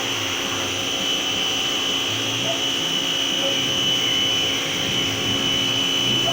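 Tecna pressure washer running steadily while its jet sprays water, with a constant high whine over a hiss.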